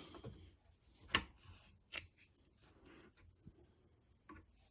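A few sharp small clicks and faint scraping of metal parts being handled as the air suspension compressor's piston is worked by hand. The loudest click comes about a second in.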